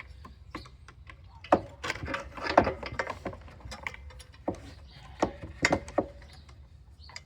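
Irregular sharp clicks and knocks as a woodworking clamp is turned against wooden boards, louder in the first half.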